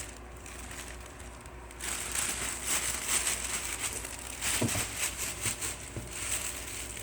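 A small toy shaken by hand, crackling and rattling in quick irregular strokes from about two seconds in, with one short low sound a little past the middle.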